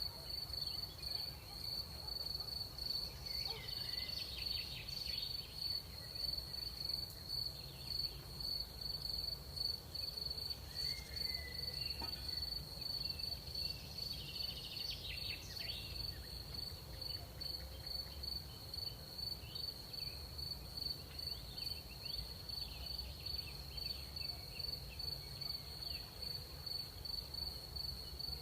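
Crickets chirping in a steady, rapidly pulsing chorus, with fainter insect calls coming and going now and then over a low rumble.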